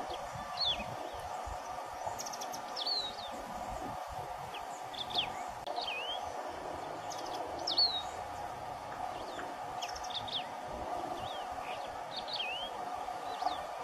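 Canário-do-campo singing in the wild: short, sharp chirped notes, each a quick swoop down and back up, repeated every second or two over a steady background hum.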